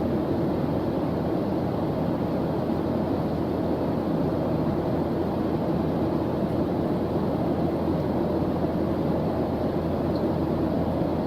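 Steady low white-noise background for studying, an even hiss weighted toward the low end like a deep rumble, unchanging throughout.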